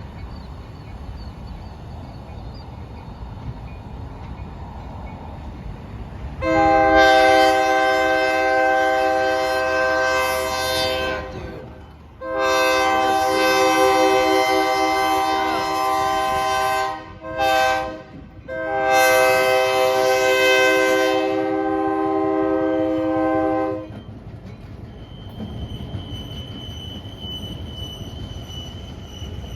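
Diesel locomotive air horn sounding the grade-crossing signal: two long blasts, one short, then one long, over the low rumble of the approaching train. After the horn, the rumble of the train carries on with a faint steady high tone.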